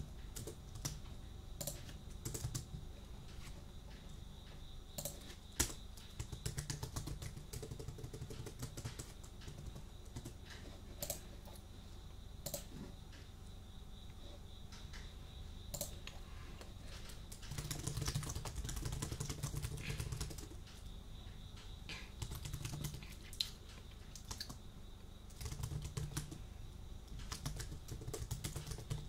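Computer keyboard being typed on: irregular runs of key clicks with short pauses, over a faint steady high tone and a low background hum.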